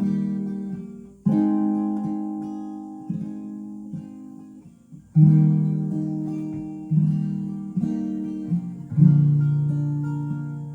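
Taylor 814ce acoustic guitar played solo at a slow tempo: chords struck and left to ring out and fade, a fresh one every second or few, with lighter single notes between them.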